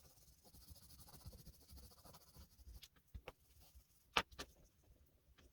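Very faint rubbing and handling at a desk during oil pastel work, with a few light clicks, the sharpest about four seconds in.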